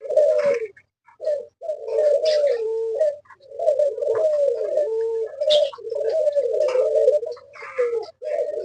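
Captive diamond doves cooing again and again, overlapping wavering calls with short breaks, mixed with brief higher chirps and chatter from other small cage birds.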